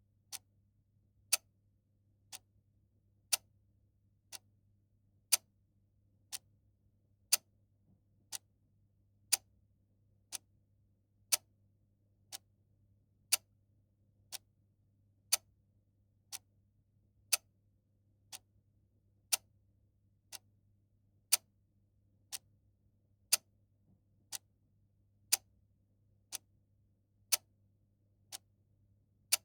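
Clock ticking steadily, one tick a second, the ticks alternating louder and softer in a tick-tock pattern. A faint low hum lies underneath.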